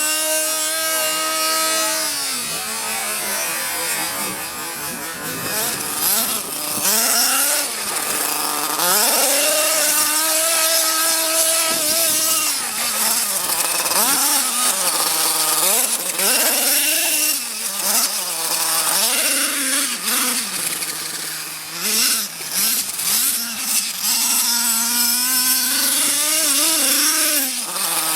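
The small two-stroke nitro engine of a CEN Genesis GST 7.7 RC monster truck, held at a high whine for the first couple of seconds, then revving up and down over and over as the truck spins and does 360s on ice.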